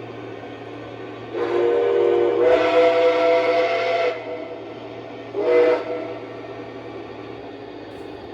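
Steam whistle from the sound system of a Lionel Legacy L2a Mohawk model locomotive: one long chime blast that swells partway through, then a short blast, over a steady background hiss.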